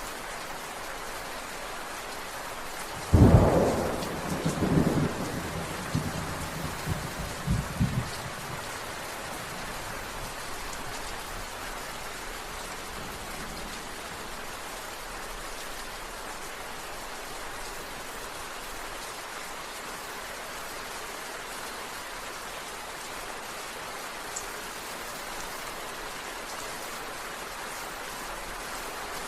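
Steady rain, with a sudden thunderclap about three seconds in that rolls on in a few rumbles for about five seconds.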